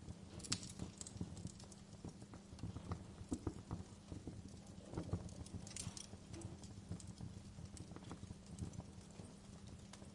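Wood fire burning, with irregular crackles and pops over a low rumble.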